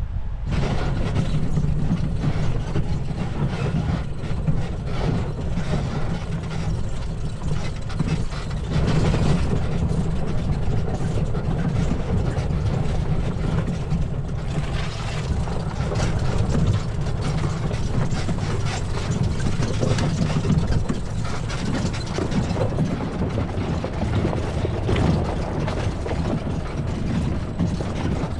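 UTV driving over a rough dirt track: a steady low rumble from the tyres and body jolting over the ground, with a continual knocking and rattling.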